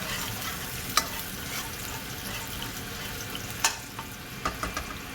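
Sunflower and chili oil sizzling steadily in a pan while it is stirred with a spatula, with a few sharp taps of the spatula against the pan, one about a second in, one a little later, and a quick run of them near the end.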